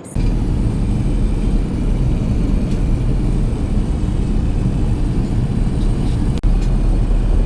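Cabin noise inside an Airbus A380 airliner: a loud, steady low rumble of jet engines and rushing air. It starts abruptly and drops out for an instant about six and a half seconds in.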